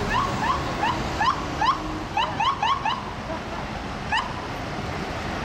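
Emergency vehicle siren blipped in short, rising chirps, irregularly spaced: a run of five, a quick burst of four, then one more, over steady street traffic.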